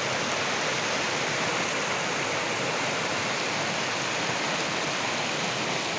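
A river waterfall rushing: a steady, even roar of falling water.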